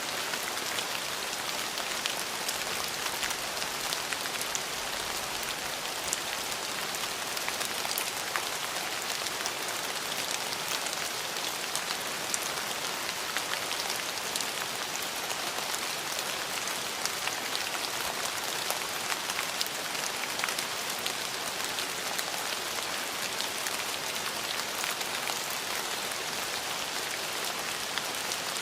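Steady rain falling, an even hiss with many individual drops pattering on surfaces.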